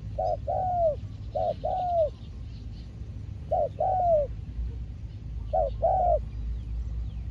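Spotted dove cooing: a short coo followed by a longer, falling coo, repeated four times about every two seconds. Faint chirps of small birds are heard behind it.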